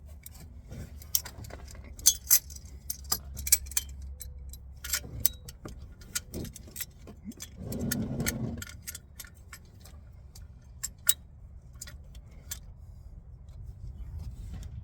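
Metal wrench clicking and clinking irregularly as it is worked on the fittings under a car during an oil change, with one short, louder muffled sound about eight seconds in.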